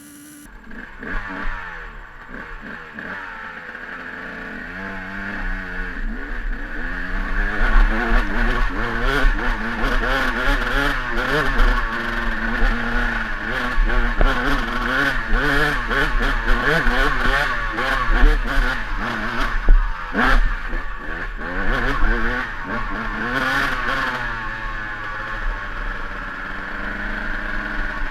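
KTM EXC 200 two-stroke dirt bike engine revving hard on a steep hill climb, its pitch rising and falling as the throttle is worked, getting louder a few seconds in, with clattering from the bike over the rough trail.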